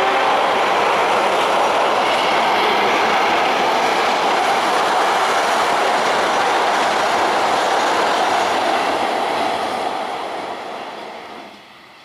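Indonesian conventional train passing at speed: a loud, steady rush of wheels on rail. It fades away over the last few seconds as the train moves off.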